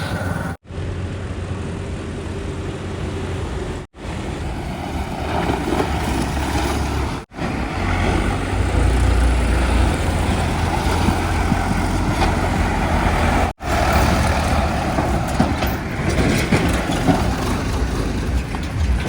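Heavy diesel engines of earth-moving machinery and trucks running, a steady deep rumble broken by four sudden brief dropouts.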